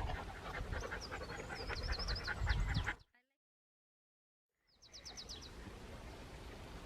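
Small birds chirping and twittering, with a low rumble under the first half. The sound drops out to dead silence for nearly two seconds midway, then a quick run of high chirps follows.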